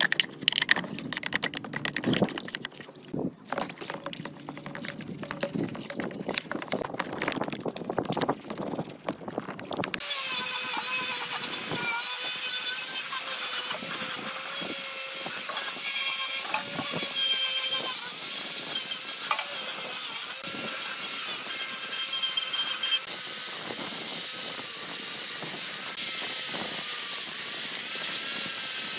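Irregular clicks and knocks of workshop handling, then from about ten seconds in a steady hissing power tool runs with a wavering whine.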